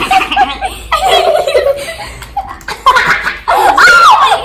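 Children laughing hard and giggling in bursts, with a high squeal near the end.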